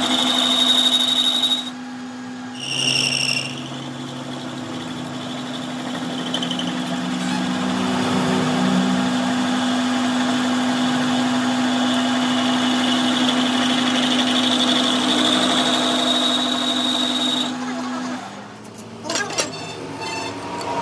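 A workshop machine running with a steady hum, with a brief high squeal about three seconds in. The hum stops about eighteen seconds in, followed by a few sharp clicks and knocks.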